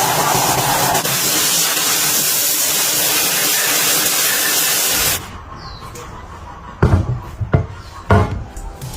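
A loud, steady spraying hiss that cuts off suddenly about five seconds in, followed by three sharp knocks.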